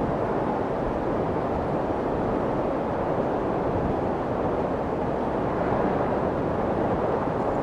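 Steady white noise for soothing a baby: an even, unbroken hiss with no tones in it, deep and muffled, its weight in the low and middle range.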